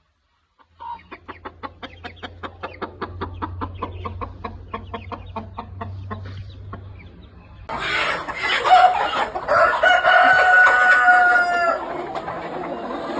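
Chickens clucking in a quick, even run of about four or five clucks a second. About two-thirds of the way through, a rooster crows loudly, one long drawn-out crow that ends shortly before the close.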